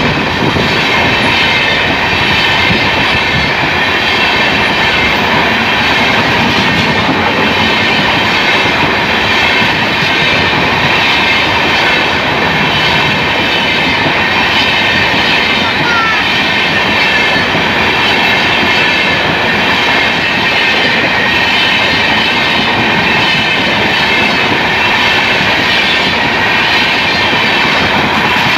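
Express train of LHB passenger coaches running through a station at speed without stopping: a loud, steady rumble and clatter of wheels on the rails.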